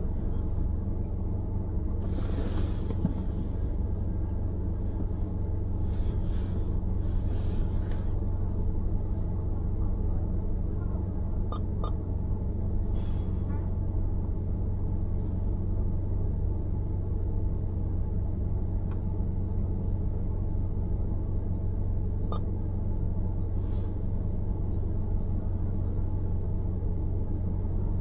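Car driving on city roads: a steady low rumble of road and engine noise, with a few brief hissy swells, the first about two seconds in and one near the end.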